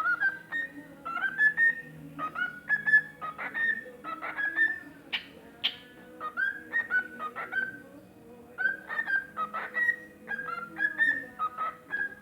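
Cockatiel singing: phrases of short, rising whistled notes in quick groups, with two brief harsher chirps about five seconds in.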